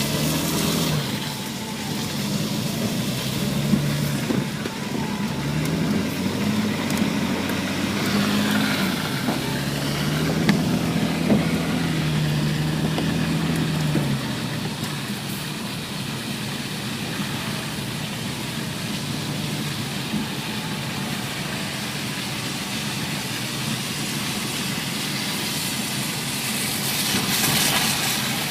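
Push car's engine running, its pitch rising and falling repeatedly for about the first half, then settling to a steadier rumble.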